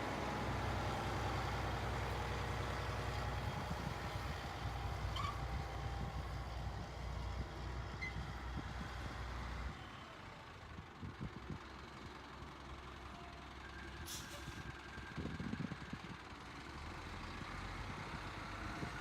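Heavy diesel truck tractor engine running steadily, its low rumble dropping away sharply about halfway through, followed a few seconds later by a short hiss of air like an air-brake release.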